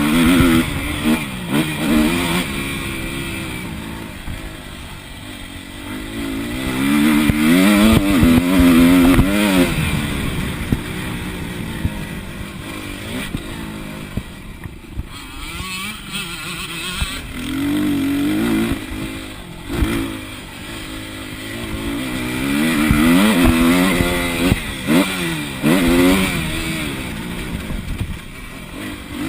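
Motocross bike engine revving hard and dropping back again and again, its pitch rising on each acceleration and falling off between them, with scattered short knocks, heard close up from an onboard camera.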